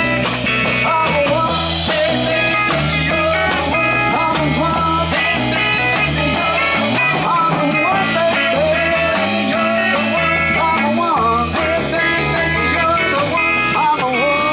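Live rock band playing an instrumental break: electric guitar lead with bending notes over bass and drums keeping a steady beat.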